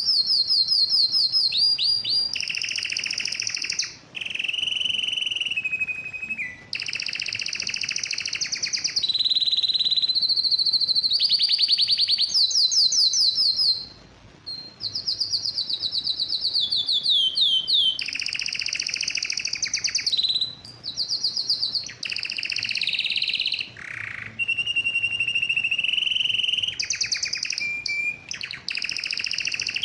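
Male domestic canary singing a long song of fast trills and rapidly repeated notes, switching from one phrase to the next every few seconds with brief pauses between them. It is the vigorous song of an excited male in breeding condition.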